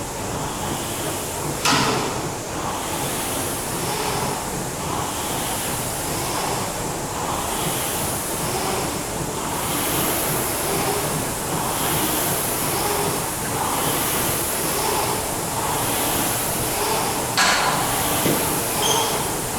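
Steady rushing noise of sea water and wind on the microphone, with a sharp knock about two seconds in and another near the end.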